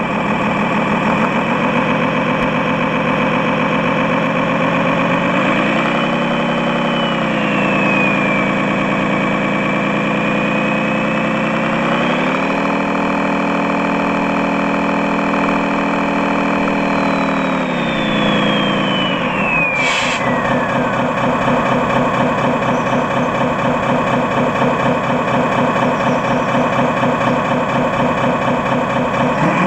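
RC model truck's sound module playing a diesel engine idling, revving up twice and holding the higher pitch before settling back to idle, with a sharp click about 20 seconds in.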